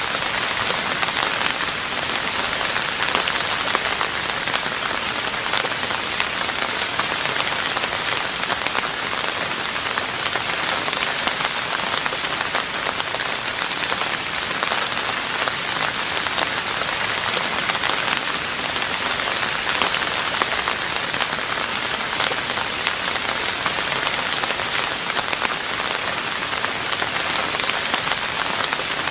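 Steady rain falling on a roof: a dense, even patter of drops with no change in strength.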